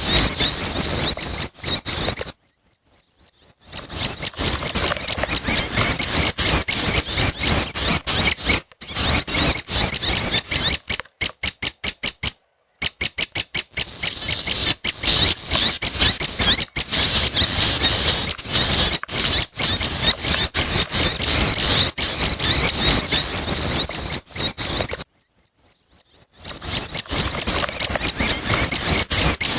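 Prenjak (prinia) nestlings' begging calls: a dense, continuous mass of high-pitched chirping. There are two short breaks, and midway a stretch of quick separate chirps.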